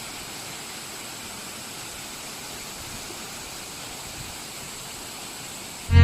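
Steady rushing of a stream and waterfall, an even wash of water noise; music cuts in right at the end.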